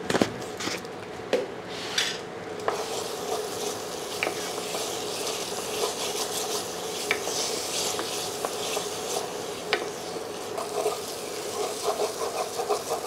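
A wooden spatula stirring and scraping a thick onion masala frying in a metal pressure cooker, over a steady sizzle, with scattered knocks of the spatula on the pot and busier scraping near the end. The masala is drying out and starting to stick to the base as it browns.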